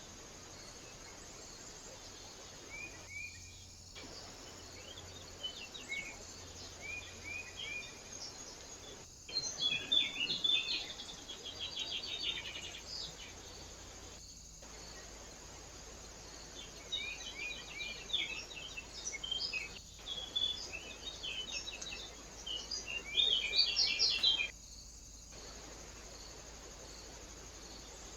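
Small birds chirping and twittering in several bouts over a steady background hiss, the sound breaking off briefly several times between recordings.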